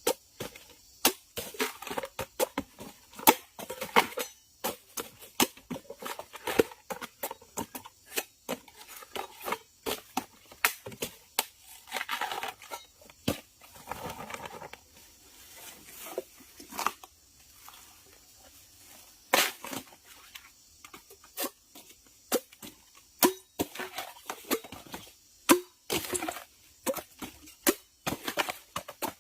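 Copper being cut by hand: a long run of irregular sharp snips and clicks, with a few longer scraping, tearing passages about halfway through and near the end.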